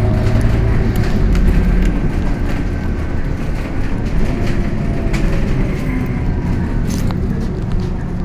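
Scania K230UB city bus heard from on board while under way: steady engine and drivetrain rumble with scattered rattles and clicks from the interior. The deep engine rumble eases after about two seconds.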